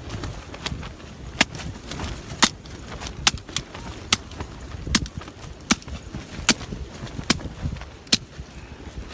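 Sharp knocks struck at a steady pace, about ten of them roughly a second apart, like something being repeatedly hit, over low wind rumble on the microphone.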